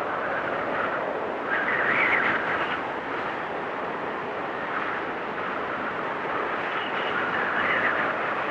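Storm wind blowing steadily with a faint whistle, swelling into stronger gusts about one and a half seconds in and again near the end.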